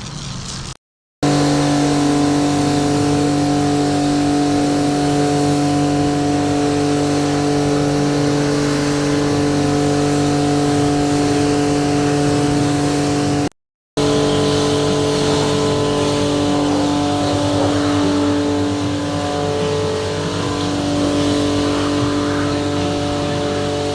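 Steady machine hum with a hiss over it, from coin-operated car wash equipment running. It cuts to dead silence briefly twice.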